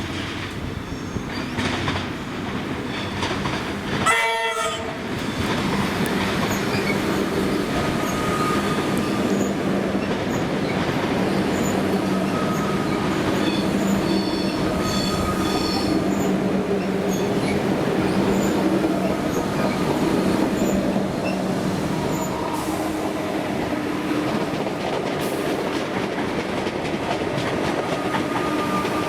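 Passenger train sounding a short horn blast about four seconds in, then running past with a steady rumble, its wheels clicking over rail joints and squealing now and then.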